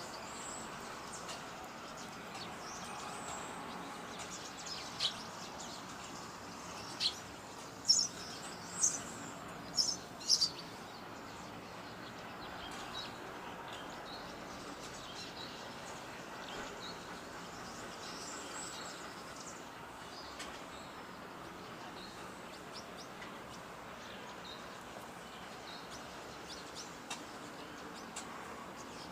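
Small birds chirping outdoors: short, sharp, high chirps, loudest in a quick cluster around the middle and scattered elsewhere, over a steady background of outdoor noise.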